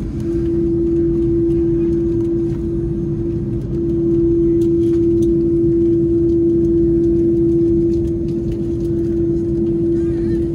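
Airbus A330-300 cabin noise: a loud, steady low rumble with a constant hum riding over it, from the jet engines and the airflow around the aircraft.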